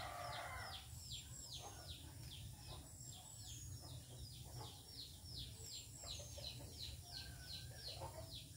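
Faint bird calls: a rapid series of short, descending chirps, about four a second, over a low steady hum. A rooster's crow trails off at the very start.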